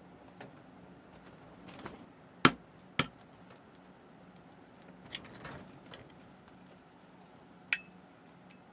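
A few sharp knocks and clicks of hard objects, the two loudest close together about two and a half and three seconds in, with fainter ones scattered before and after and one more clear click near the end.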